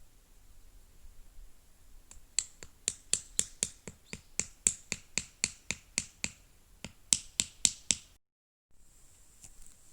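A run of sharp, evenly spaced taps, about three a second, starting about two seconds in and stopping abruptly near the end.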